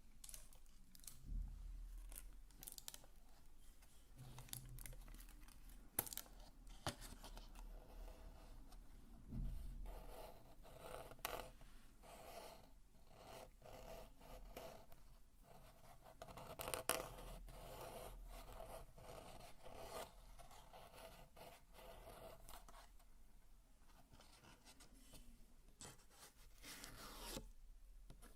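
Soft, close-miked scratching and scraping on objects, with scattered light taps and clicks.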